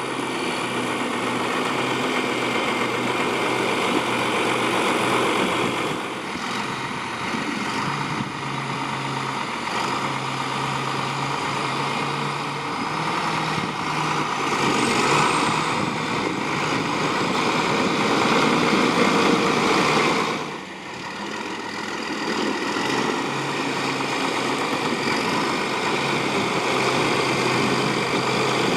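John Deere 4430 tractor's diesel engine running, its sound swelling and easing, with a brief drop about two-thirds of the way through.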